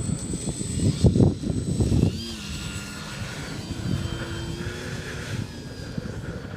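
Dynam Beaver electric RC model plane in flight: its motor and propeller whine, with the pitch sliding as the plane passes and the throttle changes. Wind buffets the microphone for the first couple of seconds.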